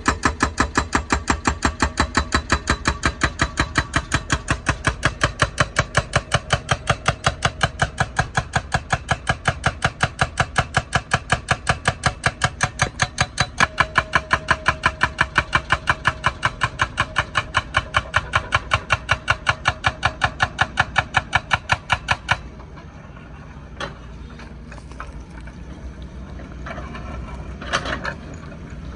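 Hydraulic breaker on a wheeled excavator hammering asphalt, a steady rapid train of blows at about five a second. It stops abruptly about 22 seconds in, leaving the machine's engine running, with a few knocks near the end.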